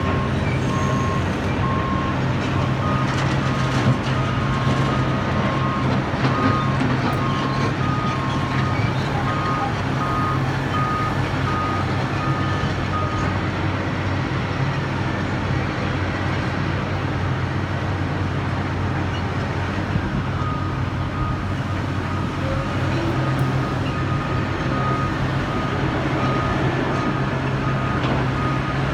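Construction truck's backup alarm beeping over a steadily running heavy diesel engine. The beeping stops about a third of the way in and starts again about two thirds of the way through, while the engine runs on.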